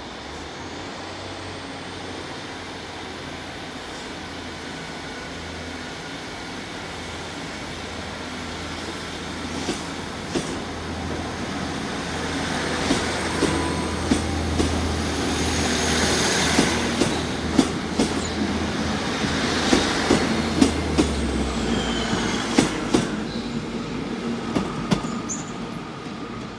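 A diesel multiple-unit passenger train running through the station. A low diesel engine drone builds to its loudest past the middle and then falls away, with a run of wheel clicks over the rail joints and a faint wheel squeal.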